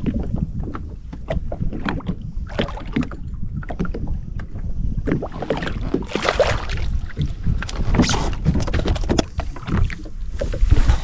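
Wind buffeting the camera microphone in a steady low rumble, with water slapping and splashing against a jetski hull and irregular knocks and splashes as a small snapper is brought to the side and lifted out of the water by hand.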